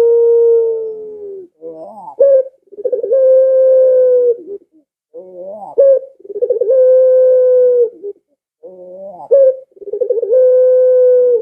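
A puter pelung, a domestic Barbary dove bred for its long call, cooing repeatedly. Each call is a short rising note followed by a long, steady, drawn-out coo lasting about two seconds, heard about three times.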